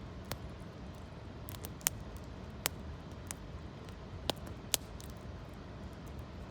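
Campfire of foraged branches and fallen leaves crackling, with a handful of sharp, irregular pops over a steady low rumble.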